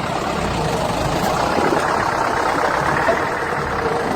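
Farm tractor engine running steadily while corn stalks are spread out for bedding.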